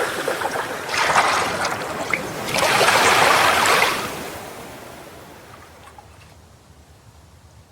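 Surf washing in on a shore: two surges of waves, the second the louder, after which the sound fades away.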